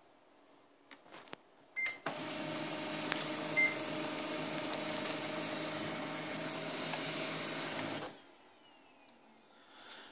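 HP LaserJet Pro MFP M127fw multifunction printer running its motor drive for about six seconds, a steady mechanical whine that starts about two seconds in, right after a few clicks and a short beep, and cuts off suddenly. A second short beep sounds shortly after it starts. The machine is working a copy job through the flatbed scanner instead of the top feeder.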